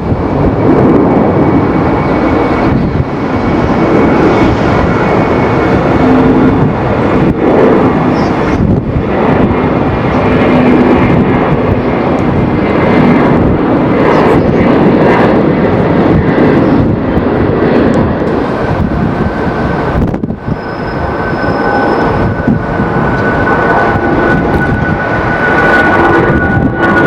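Jet airliner's engines running as it passes, with strong gusty wind buffeting the microphone. A steady high engine whine comes in about two-thirds of the way through.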